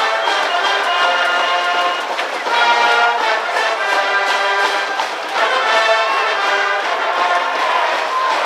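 High-school brass band playing a cheering tune in the stands at a baseball game, brass carrying a melody at a steady loud level.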